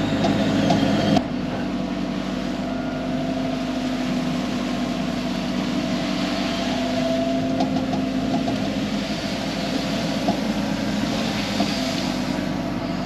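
Excavator's diesel engine running with a steady note. A louder, busier stretch of sound cuts off abruptly about a second in.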